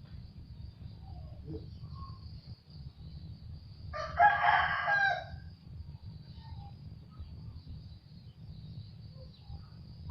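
A rooster crows once, a call lasting about a second and a half starting about four seconds in, over a steady low rumble.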